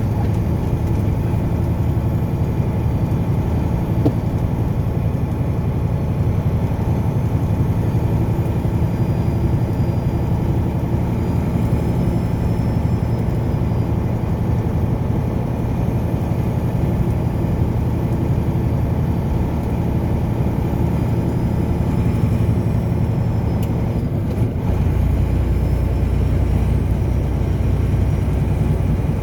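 A car driving, with a steady low engine and road rumble; the low rumble changes in pitch and strength about 24 seconds in.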